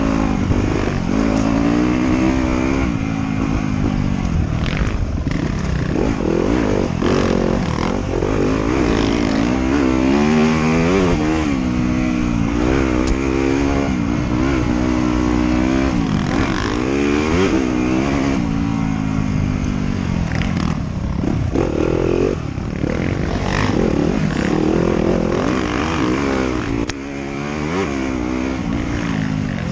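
Off-road motorcycle engine riding a trail, its pitch rising and falling over and over as the throttle opens and closes and the gears change. Scattered short knocks and clatter come through over rough ground.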